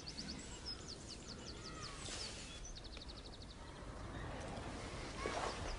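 Small birds chirping outdoors in short runs of quick repeated high notes over faint background noise, with a brief rush of hiss midway and a few soft knocks near the end.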